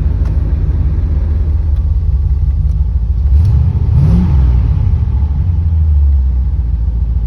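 Corvette's tuned-port-injected Chevy V8 running at idle, heard from the driver's seat; about halfway through the engine note rises in a brief rev and falls back, staying a little louder for a couple of seconds before settling.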